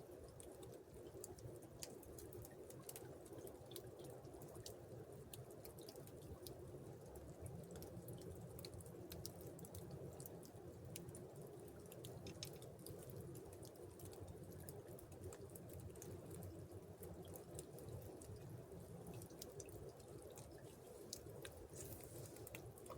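Faint, steady rush of flowing river water, with many small clicks and drips scattered throughout.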